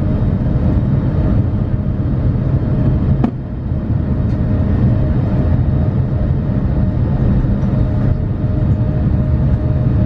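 Cabin noise aboard a Boeing 787-9: a steady, deep rumble of jet engines and airflow with a faint steady hum, and a single sharp click about three seconds in.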